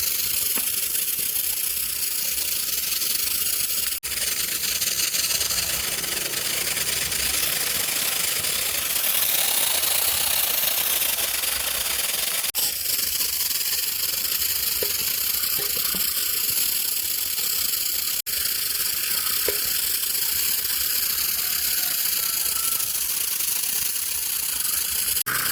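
A steady, loud spraying hiss from a cleaning tool, broken by brief dropouts about four, twelve and eighteen seconds in.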